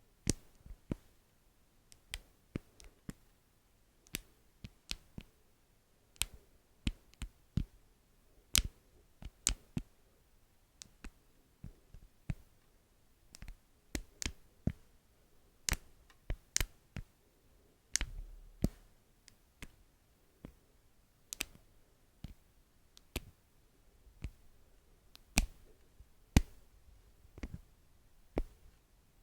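Sharp, irregular taps and clicks on beeswax, singly or in small clusters with quiet gaps between, close to the microphone.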